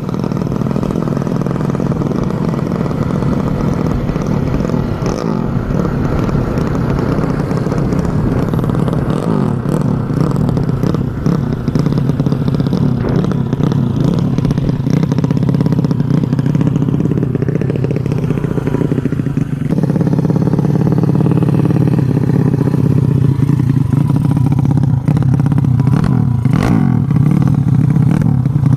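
Motorcycle engine running, the built-up 200cc Yamaha Vega single with a longer-stroke crankshaft, steady throughout and getting a little louder in the second half.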